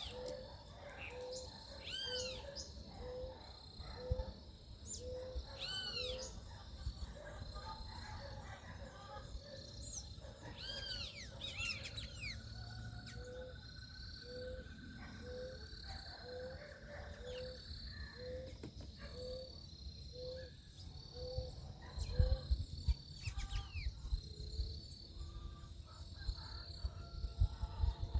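Backyard birds calling: two runs of short, low hoots, about one and a half a second, with higher, sharper chirps over them and one long, steady whistle partway through. Low bumps and knocks come in the last several seconds.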